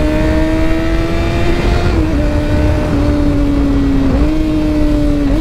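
Kawasaki ZX6R 636's inline-four engine running under way, heard over low wind rumble. Its note climbs slowly and dips briefly three times, about two seconds in, about four seconds in and near the end, at gear changes ridden hard enough to make the rear tyre skip.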